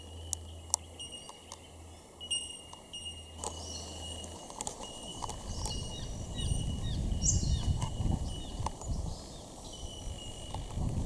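Rainforest birds calling with short repeated chirps and glides over a steady high insect-like drone. Two sharp clicks come near the start. A low hum stops a little before halfway, and low rumbling comes in after it.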